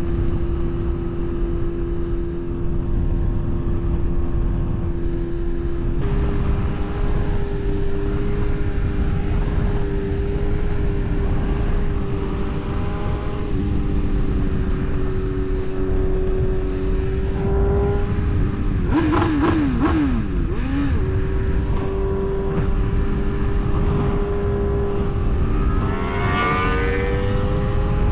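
BMW S1000RR's inline-four engine cruising at steady revs, its note shifting in pitch a few times, over constant wind and road noise. There is a brief rise and fall in revs about two-thirds of the way through, and an engine revs up near the end.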